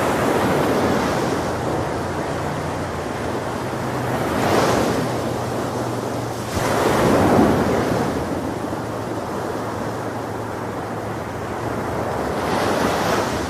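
Ocean waves breaking on a beach, with a steady wash of surf and about four louder swells as waves crash, the biggest about seven seconds in. Wind buffets the microphone throughout.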